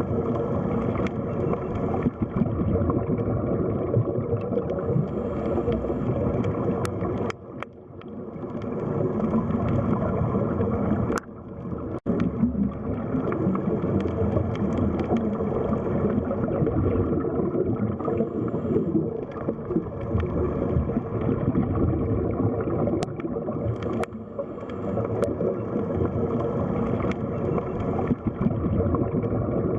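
Underwater sea ambience: a steady low rumble and gurgle of moving water, briefly dropping away twice.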